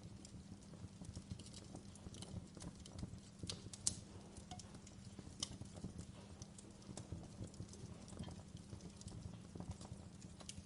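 Wood fire burning in a fireplace: a low steady rumble of flame with scattered sharp crackles and pops, the loudest pop about four seconds in.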